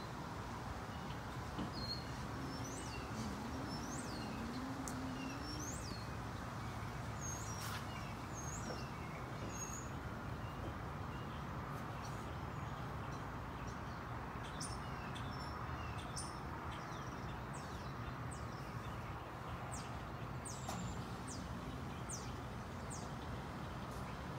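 Small birds chirping again and again, short high calls scattered through the whole stretch, over a steady low outdoor hum.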